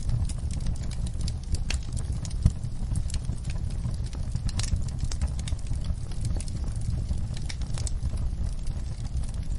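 Wood fire in a fireplace crackling: irregular sharp pops and snaps over a steady low rumble of burning, with one louder pop about two and a half seconds in.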